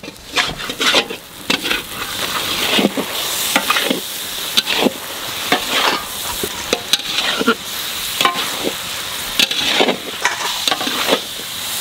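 Raw chicken pieces sizzling in hot oil and fried spice paste in a wide metal wok. A metal spatula scrapes and knocks against the pan again and again as the meat is stirred into the masala to sear.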